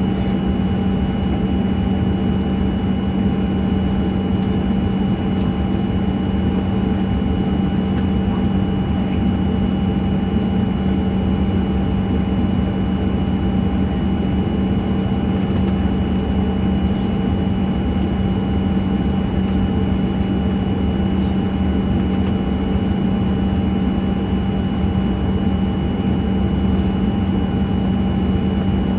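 Steady engine and airflow drone inside the passenger cabin of a Boeing 737-900, with its CFM56-7B engines running and a constant low hum.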